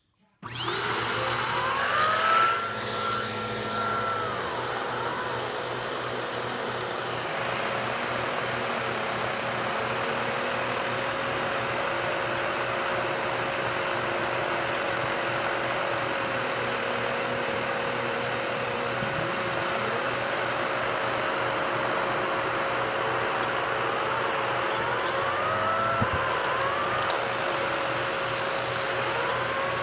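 Vacuum cleaner motor starting up about half a second in, its whine rising to speed, then running steadily, its pitch wavering now and then.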